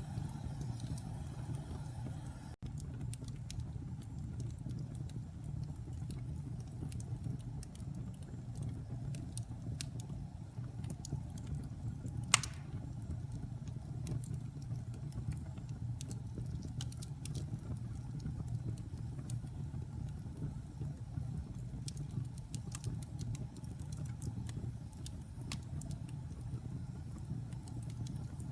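Wood fire burning in a fireplace: a steady low rumble of flames with scattered small crackles, and one sharp, much louder pop about twelve seconds in.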